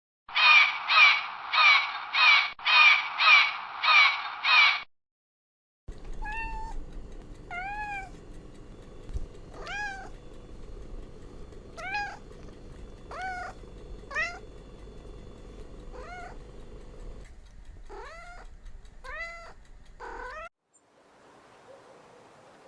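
Two different animal calls one after the other. First a loud run of about eight harsh calls, two a second. Then, after a short gap, a string of shorter pitched calls that rise and fall, one every second or two, coming quicker near the end.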